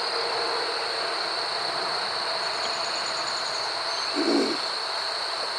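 Honey bee colony humming loudly and steadily from an open hive, which the beekeeper takes as a sign the bees know they are queenless.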